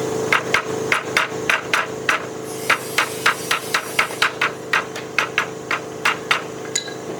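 Rapid, even hammer taps, about four a second with a brief pause partway through, over a steady machine hum.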